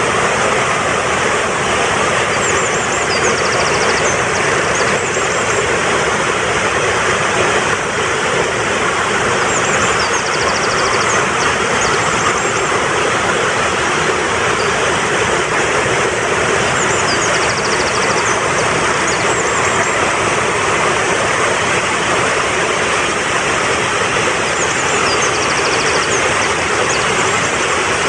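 Fast-flowing mountain stream rushing steadily. A bird's short, high, rapid chattering call repeats about every seven seconds over it.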